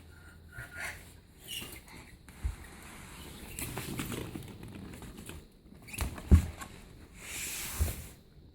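Plastic play balls rustling and clattering as a toy remote-control monster truck is pulled out from among them, with scattered light knocks and a louder thud about six seconds in.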